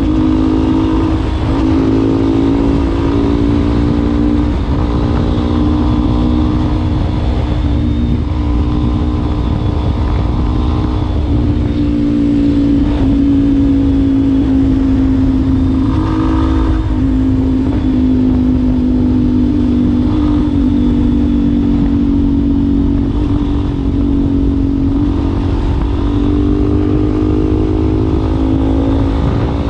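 Yamaha Ténéré 250's single-cylinder engine running through a WACS aftermarket exhaust tip at a fairly steady pace, its note rising and dipping slightly with the throttle.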